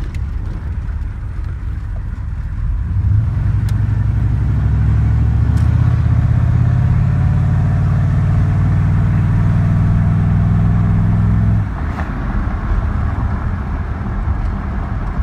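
A 1993 Chevy 1500's 6.5-litre Detroit turbo diesel heard from inside the cab while driving. About three seconds in it pulls harder under acceleration, its low drone growing louder and rising slowly in pitch. Near the end it drops back abruptly to the quieter cruising sound.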